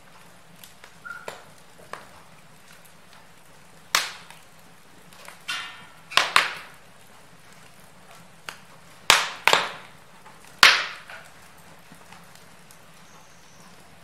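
Wood fire in a fireplace crackling: a soft steady hiss broken by scattered sharp pops and snaps, with a brief sputter just before the middle and a cluster of the loudest pops in the second half.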